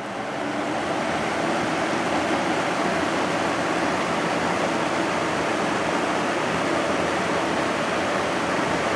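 Early-1980s Sears box fan with a shaded-pole motor running on high speed: a steady rush of moving air over a faint low motor hum. It finishes spinning up in about the first second, then holds even.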